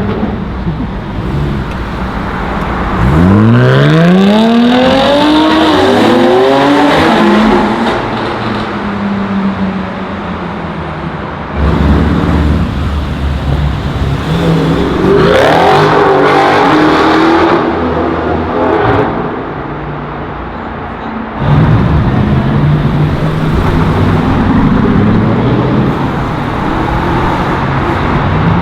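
Several sports cars pulling away one after another, engines revving hard with the pitch climbing as each one accelerates.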